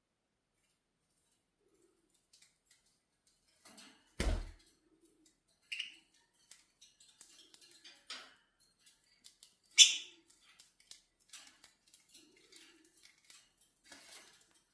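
Budgies moving about in their cage: scattered small clicks and clinks of claws and beaks on bars and perches, a dull bump about four seconds in, and a short, loud, high chirp near ten seconds in.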